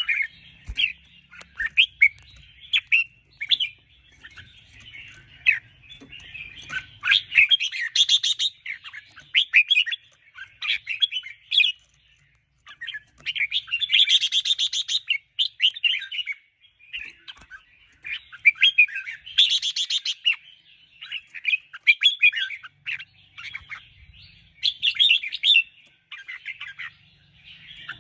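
Red-whiskered bulbul singing busy runs of quick, bright chirping phrases, with brief pauses twice.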